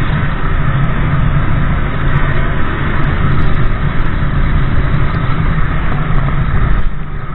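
Motorbike running along the road, a steady low drone that drops a little in level near the end.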